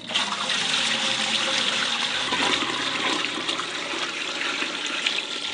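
Running water splashing steadily, starting and stopping abruptly.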